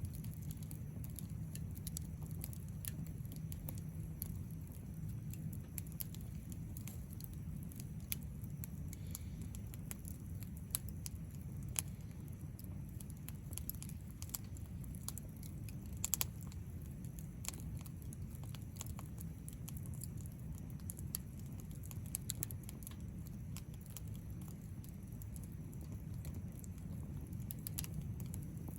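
Wood fire crackling, with scattered sharp pops over a steady low rumble of the burning fire; the loudest pop comes a little past halfway.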